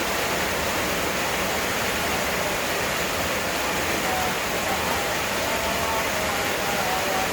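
Heavy rain pouring down, a steady, dense hiss. A few faint, brief tones sound through it in the second half.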